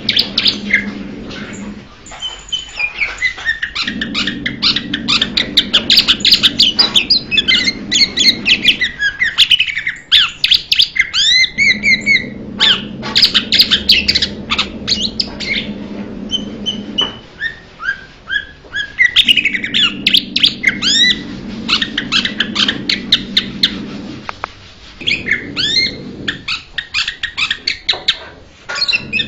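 Blue-winged leafbird singing: rapid, varied phrases of sharp whistled and chattering notes, in bursts broken by short pauses, over a low hum that comes and goes.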